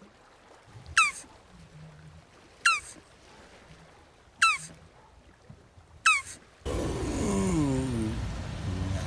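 Jabuti tortoise calling: four short, squeaky calls that drop sharply in pitch, spaced about a second and a half apart. Then, about two-thirds through, a louder, longer call begins that wavers and slides down in pitch.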